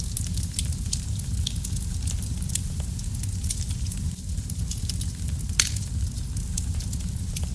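Wood fire burning in a fireplace: a steady low rumble of flames with frequent small crackles and pops, one louder pop about five and a half seconds in.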